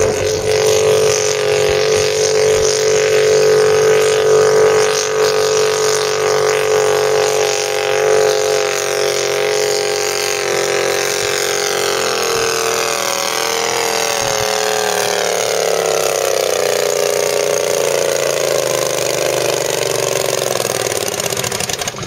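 A garden pulling tractor's Briggs & Stratton V-twin engine runs loud at high revs under load. About halfway through, its pitch starts to fall steadily as the engine is pulled down, and it drops away right at the end.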